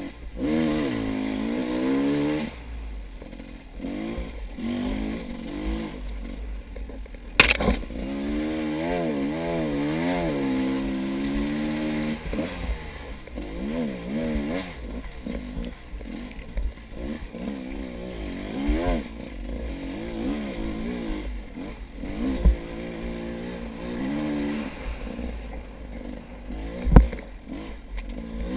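Small engine of an off-road vehicle driven over rough, muddy ground, its pitch rising and falling again and again as the throttle is worked. Two sharp knocks stand out, about a third of the way in and near the end.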